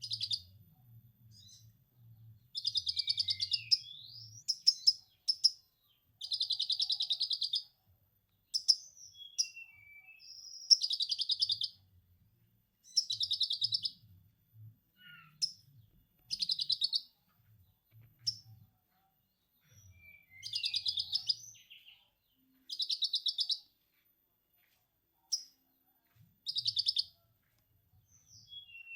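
A caged konin songbird singing in repeated fast, rattling chatter phrases of a second or two each, with short chirps and slurred notes between them: song material copied from a lovebird's 'ngekek' chatter.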